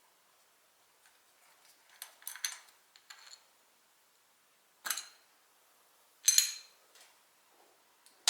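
Metal tools or parts clinking against each other in a handful of separate short knocks, the loudest about six seconds in.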